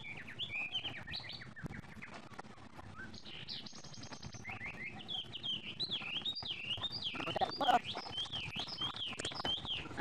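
Small birds chirping and twittering. From about halfway in, one bird repeats a quick up-and-down chirp about twice a second.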